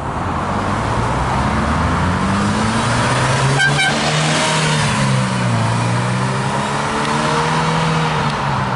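Classic mid-engined Ferrari V8 from the 308/328 family accelerating away. Its note climbs and drops back twice as it shifts up through the gears.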